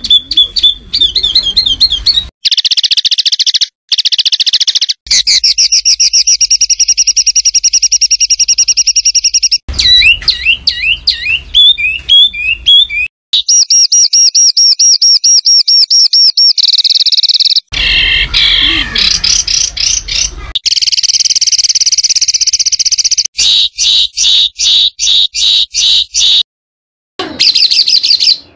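Songbird song recorded for masteran training: loud, harsh passages of very rapid repeated notes, gliding whistled notes and scratchy chatter, spliced together with abrupt cuts and brief silent gaps between sections.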